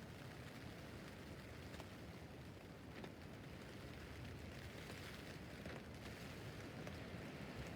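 Rain falling on a tent roof: a faint, steady hiss with an occasional louder single drop striking the fabric.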